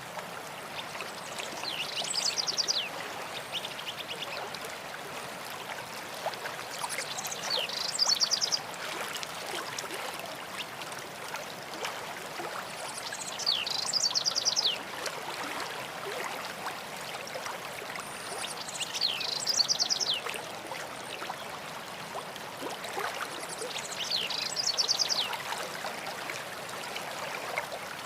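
A stream runs steadily while a songbird sings the same short, high song phrase five times, about every five to six seconds.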